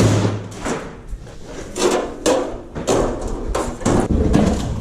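A series of knocks and clatters as items are handled and moved around, about eight sharp hits spread across a few seconds.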